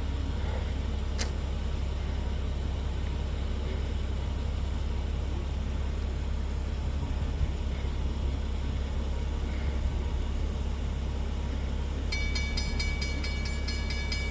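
Low, steady rumble of an approaching CSX intermodal freight train. About 12 seconds in, a steady high ringing tone with a fast repeating pattern starts and keeps going.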